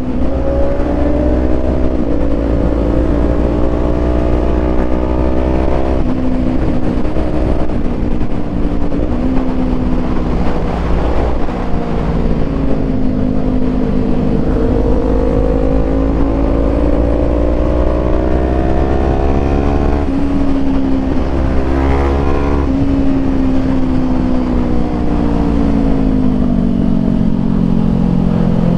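Small parallel-twin sport motorcycle engine under way, heard through a helmet-mounted mic: revs climb and fall repeatedly, with several sudden pitch drops at gear changes. A steady low wind rumble runs underneath.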